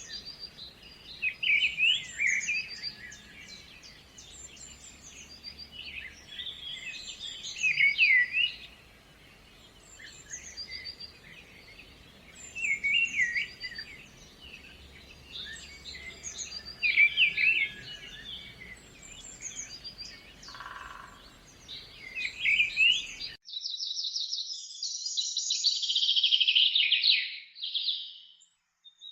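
Songbirds chirping in short phrases that recur every few seconds over a faint steady hiss. About 23 seconds in the background cuts out and a louder, rapid twittering call runs for about five seconds.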